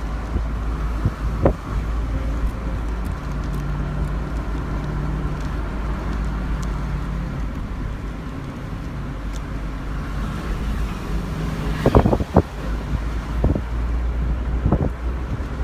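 Wind rushing and buffeting the microphone from a vehicle travelling at speed, over a steady low rumble of the vehicle and road. Sharp gusts thump the microphone once early on and several times around twelve to fifteen seconds in.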